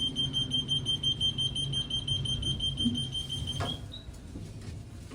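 KONE lift's door-obstruction alarm beeping rapidly in a high, even tone, the warning that the doors are being held open. It cuts off about three and a half seconds in, with a click and one short higher beep, over a low steady hum.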